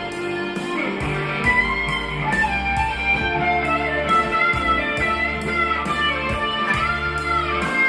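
Gretsch electric guitar playing an improvised lead line of sustained, bending notes over a backing with a steady beat and bass.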